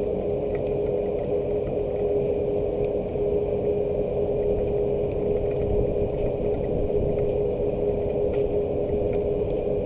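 Steady rain noise, a low even rush, over a constant droning machine hum, with a few faint ticks of drops.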